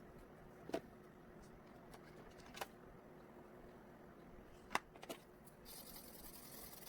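Faint sounds of oil pastel drawing on paper: four light, sharp clicks, then a soft scratchy hiss that starts near the end as strokes are laid down.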